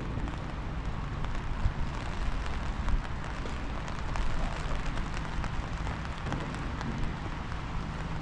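Wind buffeting the microphone in rumbling gusts over a steady hiss of light rain, with faint raindrop ticks; a couple of stronger gusts come in the first few seconds.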